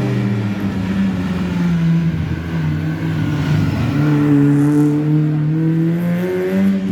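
Rally car engine running close by, then revving with its pitch climbing steadily over the last few seconds.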